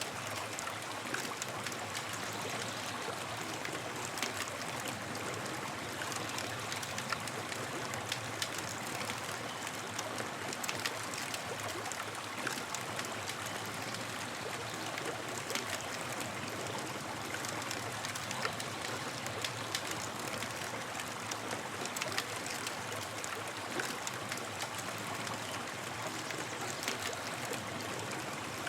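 Campfire burning steadily, with a constant hiss and frequent sharp crackles and pops from the burning wood.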